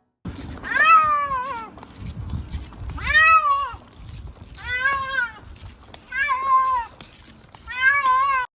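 A cat meowing five times in long drawn-out meows, one every second and a half to two seconds, each rising and then falling in pitch.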